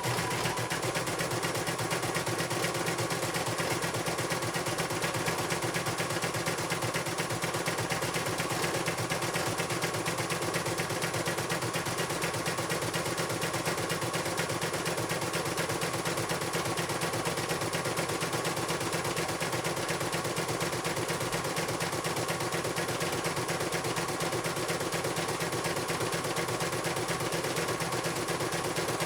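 CNY computerized embroidery machine stitching at speed: a fast, even clatter of needle strokes that runs steadily without a pause.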